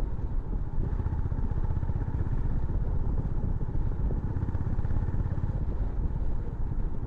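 Honda CB350 H'ness motorcycle's single-cylinder engine and exhaust running steadily while riding at low speed.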